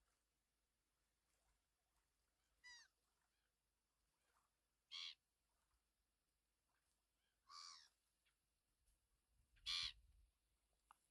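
A bird calling four times, short harsh calls about two to three seconds apart, faint against a quiet morning background.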